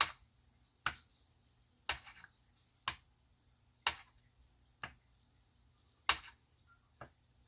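Eight sharp taps at about one a second: a marker tip dabbed down onto glossy photo paper to make marks.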